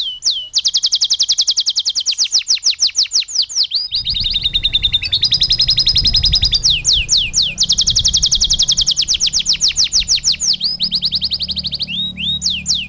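Domestic canary singing a continuous song of rapid trills, about ten or more quick sweeping notes a second, switching to a new phrase every second or two; it is a canary song filled with lovebird-style notes. A low hum comes in about four seconds in.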